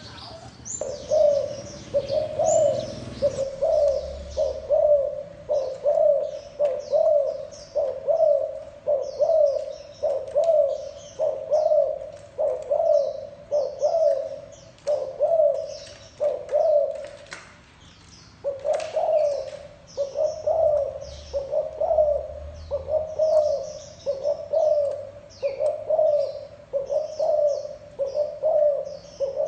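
Spotted dove giving its courtship coo: a long, fast series of short, evenly repeated low coos, about one and a half a second, breaking off briefly around the middle. Small birds chirp faintly behind it.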